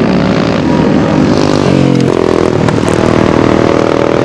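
Several racing engines running hard on a dirt flat track, overlapping, their pitch rising and dropping as the machines accelerate and back off.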